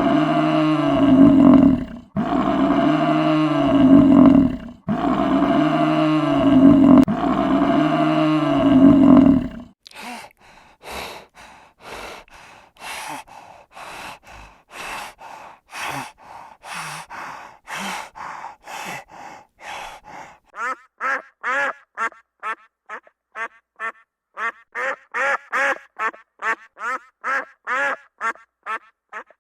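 Animal calls: four long, loud, low-pitched calls in a row, then a run of short, fainter calls about one a second, then quicker short calls about two a second.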